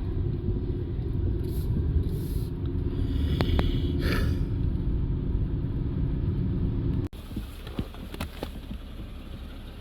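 Steady low rumble of a vehicle driving, engine and road noise. About seven seconds in it breaks off abruptly and gives way to quieter road noise.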